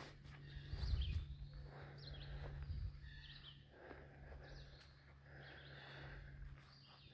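Faint outdoor ambience: small birds chirping now and then, over a steady low hum, with low rumbling knocks about a second in.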